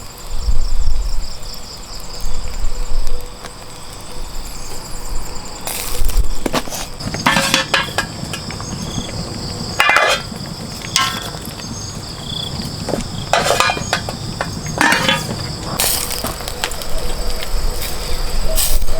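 Insects calling steadily in a high, unbroken drone, with irregular knocks and clatters every second or two through the second half.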